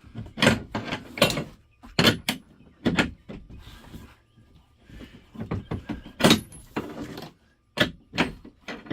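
Irregular metallic knocks and clanks, a dozen or so in uneven clusters, from hand work on fittings inside a truck's sleeper cab.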